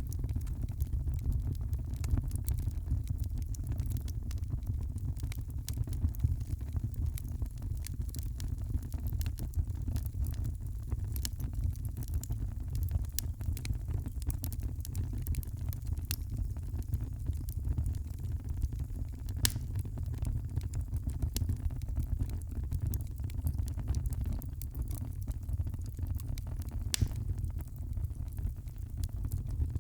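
Wood fire crackling in a fireplace: a steady low rumble under scattered small pops and snaps, with a sharper pop about two-thirds of the way in and another near the end.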